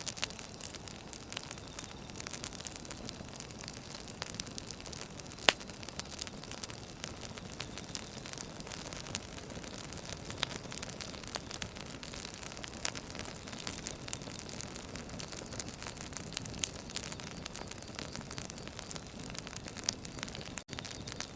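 Burning firewood crackling over a steady hiss, with frequent small pops and one sharp loud pop about five seconds in. The sound cuts out for an instant near the end.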